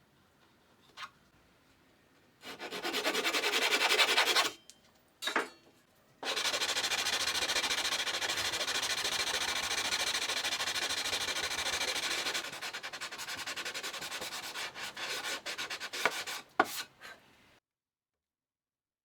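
Sanding wood: abrasive rubbing on a wooden surface. A short spell comes first, then a longer steady one that grows quieter and patchier with a few sharp knocks before it stops.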